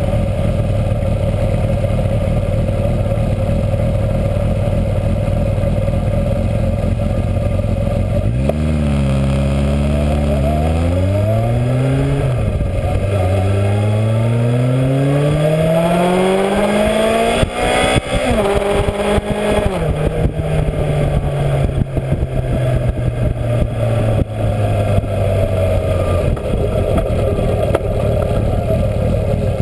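Yamaha XJ600's air-cooled inline-four running through a new exhaust as the bike accelerates. The exhaust note climbs, drops back at a gear change, climbs again to a higher pitch and drops at another shift, then holds steady at cruise before easing off. Steady wind and road noise runs under it throughout.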